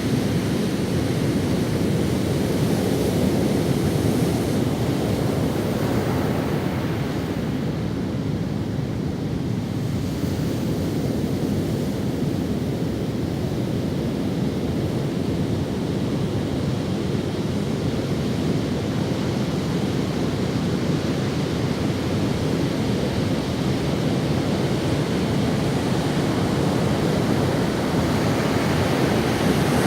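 Ocean waves breaking and washing up on a sandy beach: a steady rush of surf that swells and eases gently.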